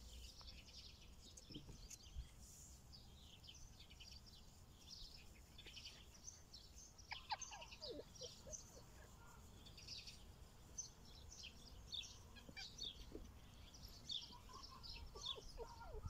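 Faint birdsong: many short chirps and trills from small birds, with a low rumble underneath.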